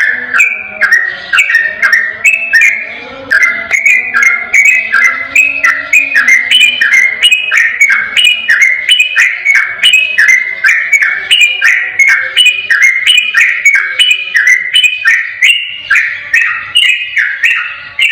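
Yellow-vented bulbul (trucukan) singing its fast rolling 'ropel' song: a continuous, unbroken string of clear, bubbling notes, several a second.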